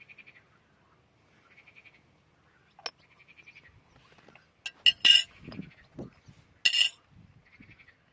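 Several sharp clinks of cookware or utensils knocking together between about three and seven seconds in, with a couple of dull knocks. Under them, a frog's short trilled call repeats every second or two.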